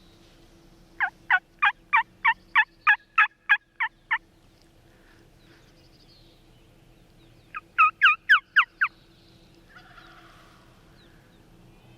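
Turkey yelping: a loud run of about eleven evenly spaced yelps, then a shorter, faster run of about six yelps. A fainter, hazier turkey call follows near the end, likely a distant gobble.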